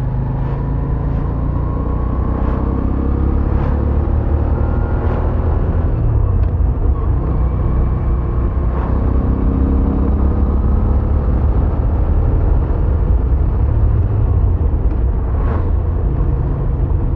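Moto Guzzi V7 850's air-cooled transverse V-twin running on the move, a steady low rumble whose pitch rises slowly over the first several seconds.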